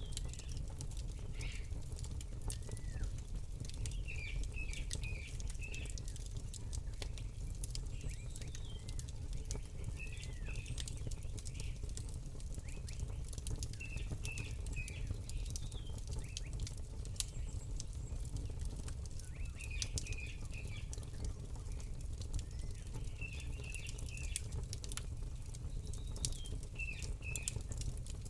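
Campfire crackling with sharp, irregular pops over a steady low rumble, while small birds chirp in short runs every few seconds.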